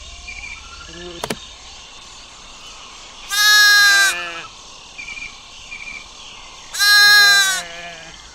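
Domestic sheep bleating: two loud bleats about three and a half seconds apart, each lasting just under a second.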